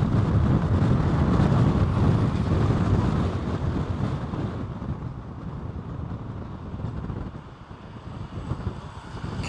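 Storm wind buffeting the microphone: a loud, rumbling gust for the first few seconds that eases off toward the end.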